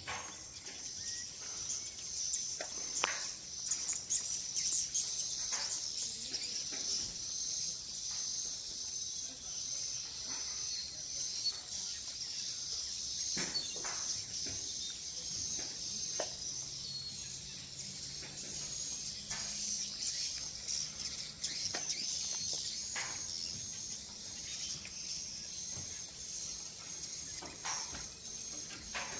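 Swiftlets twittering continuously in high-pitched chirps, with a few short sharp clicks scattered through.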